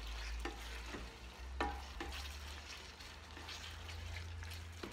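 Ground-beef picadillo sizzling in a nonstick pan while a plastic spatula stirs it, with a few short scrapes and knocks of the spatula against the pan, the loudest about a second and a half in.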